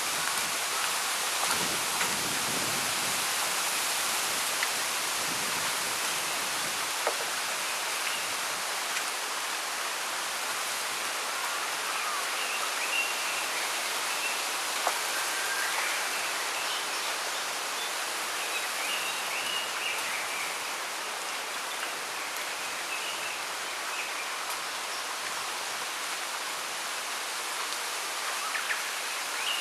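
Steady hiss of wind rustling through the leaves of a bamboo grove, with faint small-bird chirps coming and going through the middle and again near the end.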